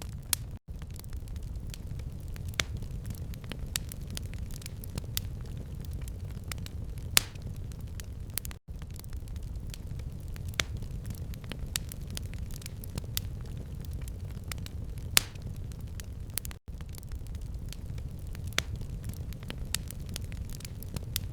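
Wood fire crackling in a fireplace: a steady low rumble of the flames under constant small crackles, with a few louder pops, notably about seven seconds in and about fifteen seconds in.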